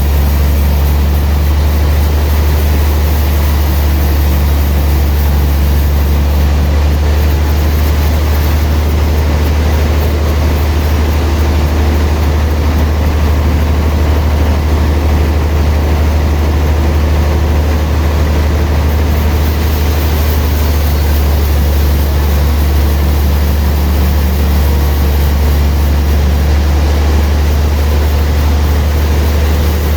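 Sawmill machinery running, a steady low engine hum with no change in pitch or level.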